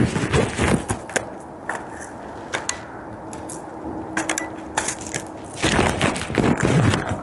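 Irregular clicks, knocks and rustling close to the microphone, heaviest near the start and again about six seconds in, with a faint steady hum in between.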